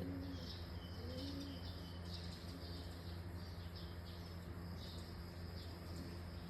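Faint doves cooing in the background with scattered bird chirps, over a steady low electrical hum.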